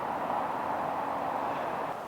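Steady rumble of distant vehicle traffic, easing slightly right at the end.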